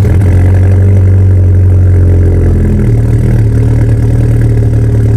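Volkswagen MK6 GTI's turbocharged four-cylinder engine idling loud and steady just after a semi-cold start, having sat a week in the snow.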